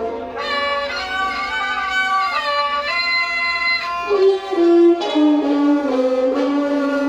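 Thai classical instrumental music, a homrong overture: a melody of held notes that change every second or so, some sliding between pitches.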